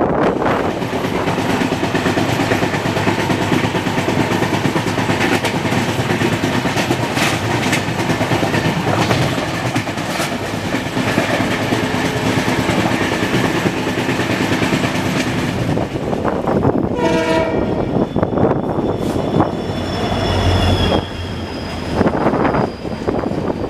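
Moving passenger train running at speed: a steady rush of wind and wheels on the rails, with some clickety-clack. About 17 s in, a train horn sounds in short broken blasts. After that a double-stack container train passes close alongside with a deep rumbling rush and a faint high squeal.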